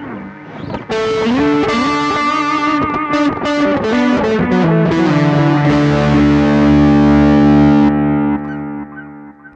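Overdriven electric guitar through a Behringer GDi21 amp-simulator pedal and a Cuvave ODrive Blues overdrive: a bluesy lead phrase with bent notes, then a held chord that rings for a few seconds and fades away near the end.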